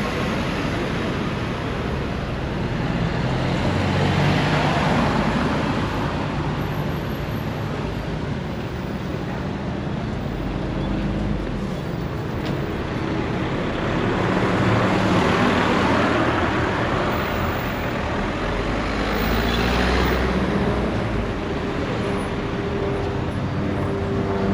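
Road traffic: vehicles passing by over a steady background rumble, the noise swelling and fading as each one goes past, about three times.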